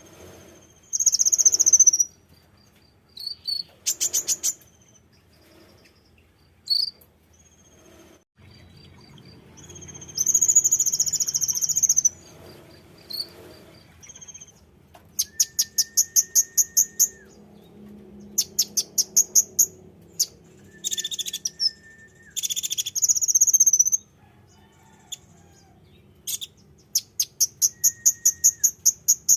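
Konin songbird calling: a series of very high, rapid trills, each a second or two long, alternating with short buzzy chirps and a few brief steady whistles, with pauses between phrases.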